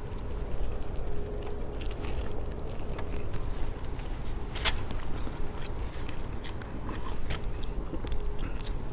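A man chewing a mouthful of loaded chicken burrito close to the microphone, with wet mouth clicks and smacks scattered all through.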